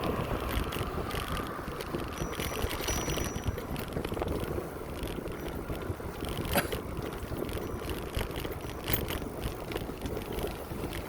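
Bicycle being ridden along a path: steady rumble of tyres and wind on the microphone, with a few sharp clicks and rattles from the bike, the loudest about six and a half seconds in.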